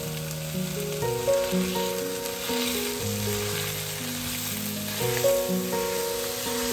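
Minced beef and diced vegetables sizzling in an oiled frying pan while a wooden spatula stirs and breaks up the meat. Background music plays alongside.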